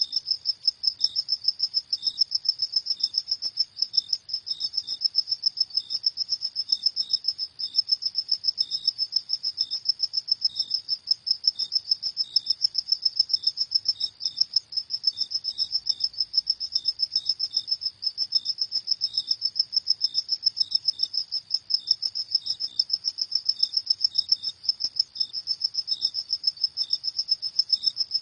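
Crickets chirping: a dense, fast, unbroken high-pitched trill, with a second, slightly lower-pitched cricket sounding in short separate chirps over it.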